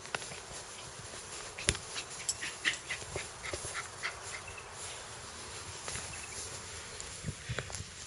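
A dog's quiet sounds, with scattered sharp clicks and a cluster of short high-pitched chirps about two to four seconds in.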